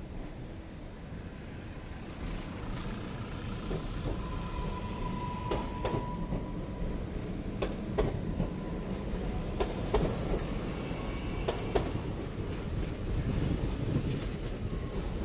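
Newag Impuls ETR322 electric multiple unit passing close by, its rolling noise building and then holding steady. A thin steady whine runs for a few seconds early in the pass, and the wheels click in pairs over the rail joints about every two seconds.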